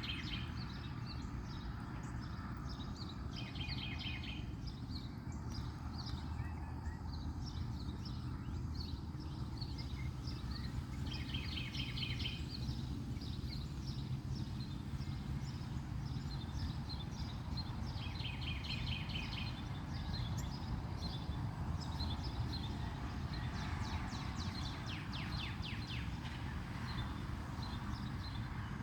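Backyard birds chirping and singing over a steady low rumble, with one bird giving a short rapid trill several times.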